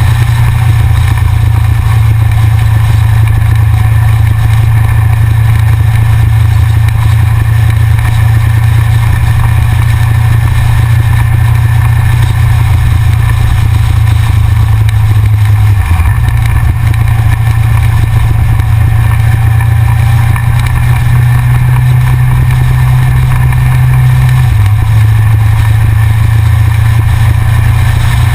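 Yamaha XJR motorcycle's inline-four engine running steadily under way. The engine note shifts slightly about halfway through and again near the end.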